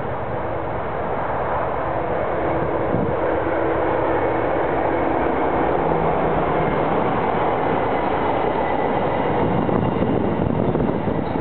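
Class 60 diesel locomotive hauling loaded freight wagons, its engine and the rumble of the train growing steadily louder as it approaches.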